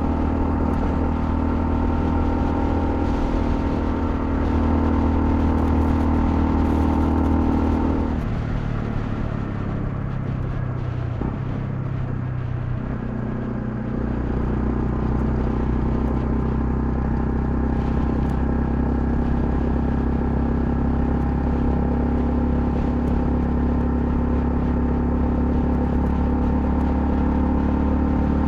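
Honda CL250 motorcycle engine running under way with a steady note; about eight seconds in the note drops as the throttle eases off, then it picks back up and runs steadily again.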